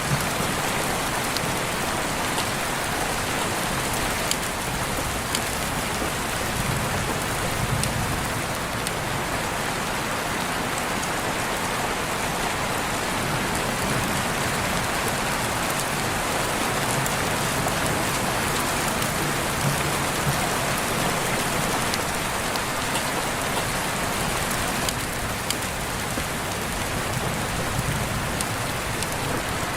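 Steady heavy rainfall with scattered drop ticks.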